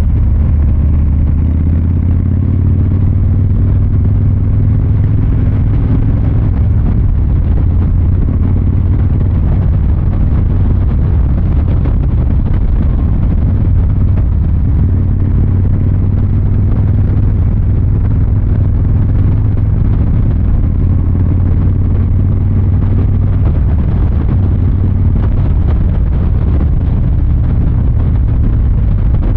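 Harley-Davidson Fat Boy 114's Milwaukee-Eight 114 V-twin exhaust running steadily with a deep, even rumble.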